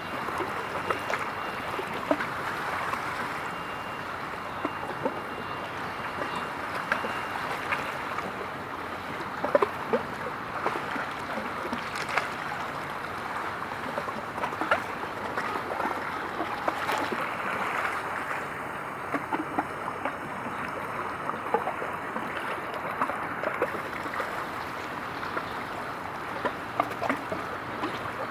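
Small waves lapping and splashing at the water's edge: a steady wash broken by many small, irregular splashes.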